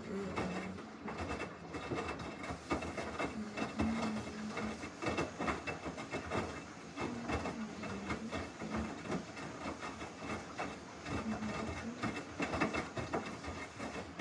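Samsung washing machine running its wash cycle: the drum turns and the wet laundry and water slosh inside it, making a dense, irregular clatter.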